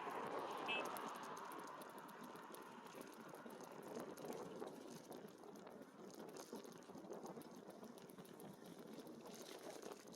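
Steady, faint rushing and crackling noise of an e-bike in motion: tyres on the path and air moving past. A brief high chirp sounds under a second in.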